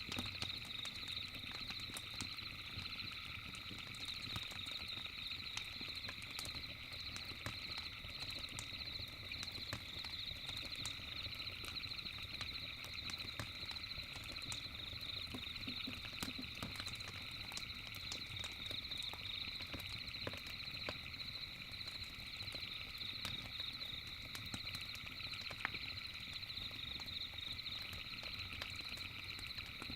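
Campfire crackling with scattered sharp pops over a steady, high-pitched trilling night chorus.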